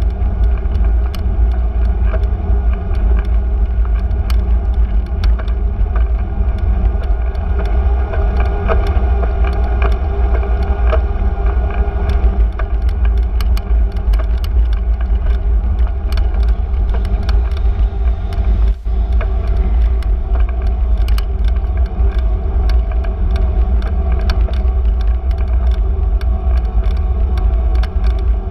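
Continuous street noise from riding a bicycle: a steady low rumble with many small clicks and rattles throughout, and motor traffic in the mix.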